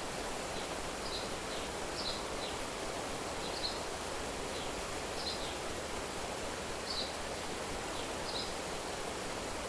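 Outdoor nature ambience: a steady rushing, rustling hiss with a small bird's short, high chirps repeating about once every second or so.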